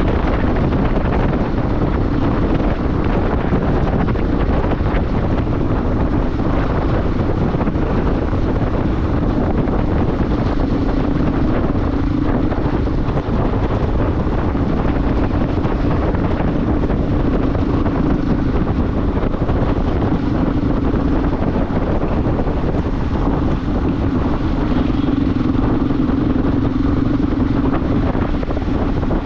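Motorcycle engine running at a steady cruise under a loud rush of wind on the microphone. The engine's hum holds a steady pitch, swelling a little about a third of the way in and again near the end.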